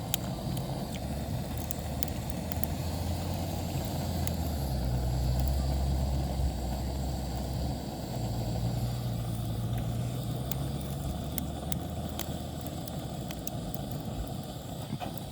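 Motor vehicle engine running with a steady low hum that grows stronger about four seconds in and eases off again after about eleven seconds.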